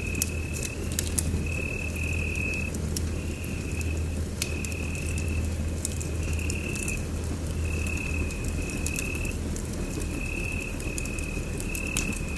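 Wood fire crackling in a fireplace, with scattered sharp pops over a steady low rumble. A high trilling tone repeats in short stretches throughout, like an insect chirring.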